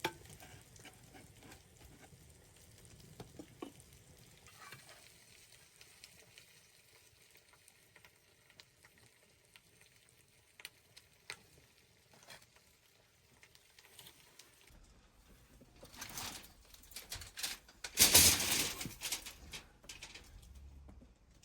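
Food sizzling quietly in a pan, with scattered light clicks of stirring. Near the end come louder noisy bursts, the loudest lasting about a second.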